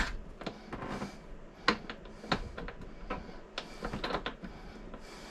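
Scattered small clicks and knocks of hardware being handled while nuts are tightened by hand on a toilet fitting. The sharpest click comes right at the start, and a few lighter ones follow over the next few seconds.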